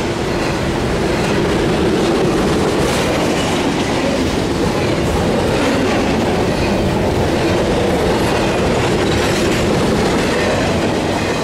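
Double-stack intermodal container train's well cars passing close at speed: a steady, loud rumble of steel wheels on rail, with occasional clacks over rail joints.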